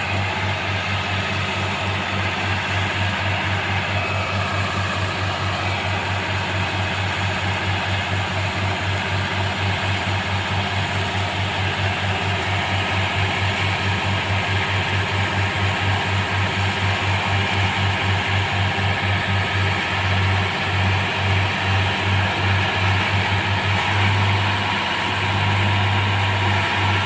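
Engine of a railway track-changing machine running steadily, a low hum with a fast, even pulse.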